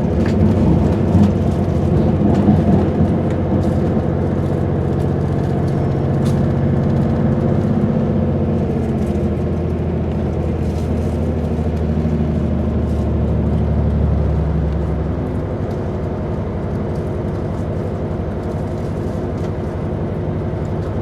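A passenger train running, its engine giving a steady low hum under the running noise, heard from inside the carriage. The deepest part of the hum eases off about fifteen seconds in.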